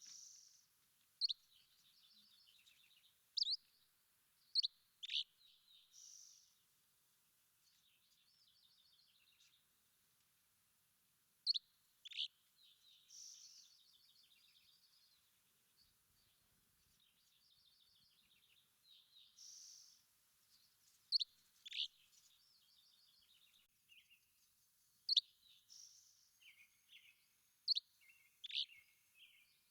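Songbirds singing: sharp, loud chirps that slur steeply downward, coming every second or two, over softer rapid trills and twittering phrases.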